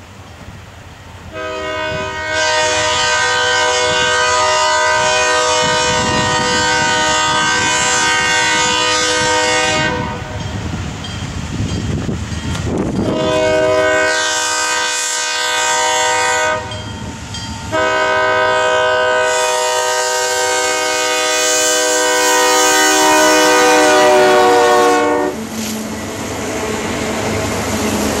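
ALCO diesel locomotive's air horn sounding three loud, sustained blasts: a long one of about eight seconds, a shorter one of about three seconds, and another long one of about seven seconds, over the rumble of the moving train.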